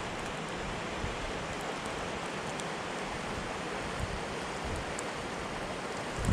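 Steady hiss of blizzard wind and blowing snow, with a few faint tiny ticks.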